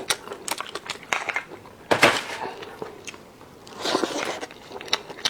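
Close-miked eating sounds: chewing with wet mouth clicks and crackles, with a louder burst about two seconds in and another around four seconds.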